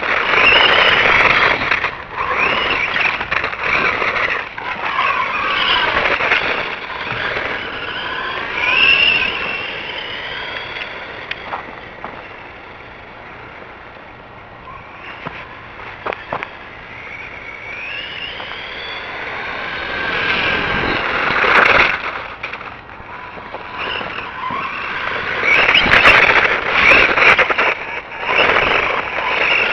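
Brushed electric motor of a 1/12-scale 2WD RC monster truck whining, its pitch rising and falling again and again as the truck speeds up and slows, over tyre and ground noise. The sound fades for several seconds in the middle and grows loud again near the end.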